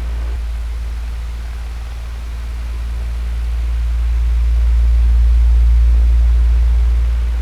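Electric fan running: a steady low motor hum under a whoosh of moving air. The loudness swells slowly, peaks about two-thirds of the way through, then eases back.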